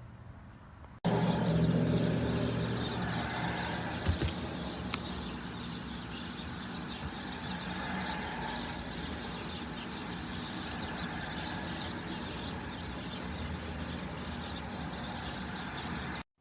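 A car engine running: it comes in suddenly about a second in, loudest at first, then settles into a steady run, and cuts off abruptly near the end.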